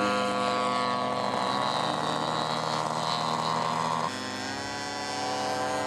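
Radio-controlled scale model airplane engine running steadily in flight, a continuous buzzing drone that gets quieter about four seconds in.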